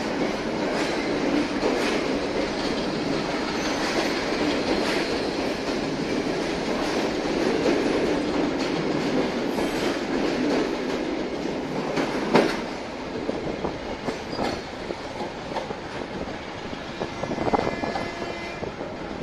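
Passenger train coaches rolling past and away below, their wheels clattering over rail joints and points. A sharp clack comes about twelve seconds in, after which the sound drops to fainter, scattered clicks as the last coach pulls away.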